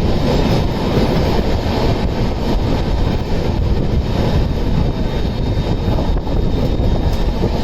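Passenger train running at speed: a steady, even rumble and rush of noise with no distinct wheel clicks.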